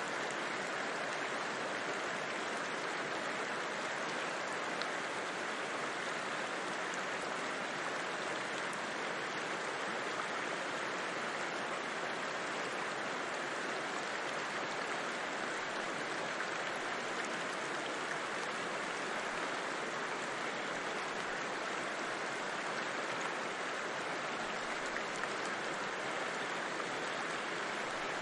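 A river flowing steadily: a continuous, even wash of running water with no breaks or changes.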